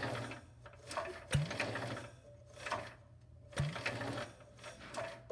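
Belt-driven starter-generator cranking a Kohler engine slowly, the whir surging and sagging with each turn as the engine's compression loads it, with sharp clicks about a second and a half in and again past three and a half seconds. The slow, labouring cranking is a sign of the starter struggling against an engine with no compression release.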